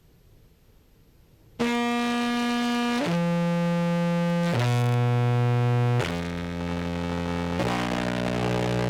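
Contrabass clarinet played through a fuzz and compression pedal chain: after a short silence it sounds a run of held, distorted low notes, each about a second and a half, stepping mostly downward. The notes are checking how evenly the compressor holds the low register at a lowered threshold.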